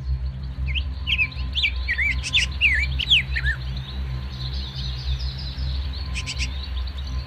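Birds chirping: a quick run of short, falling whistled notes in the first few seconds, then fainter high chatter, over a steady low hum.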